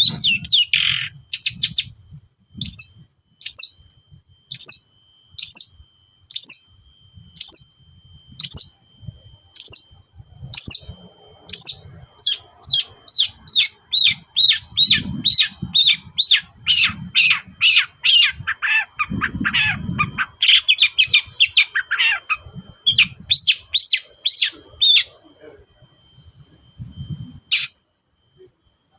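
Long-tailed shrike (cendet) singing: a series of short, sharp, high notes, at first a little more than one a second, quickening to a fast run in the middle, then stopping a few seconds before the end with one last note.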